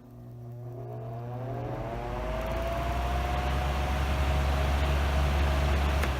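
Air King 16-inch table fan starting up from off: the motor hums, then whines as it spins up, the whine rising in pitch and levelling off about three seconds in. The rush of air grows steadily louder as the blades come up to speed.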